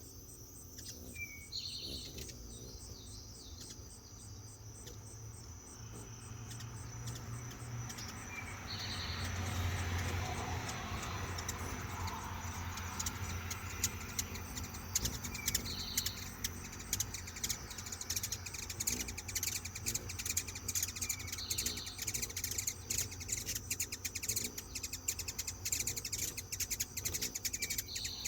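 Hummingbirds chattering: high squeaky chips and short calls, growing into dense rapid ticking chatter about halfway through.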